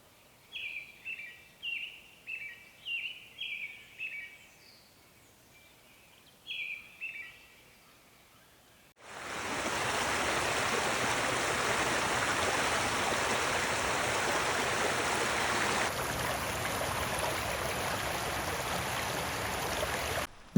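A bird giving a quick series of short calls, about nine in the first four seconds and two more a little later. About nine seconds in it cuts to the steady rush of flowing river water.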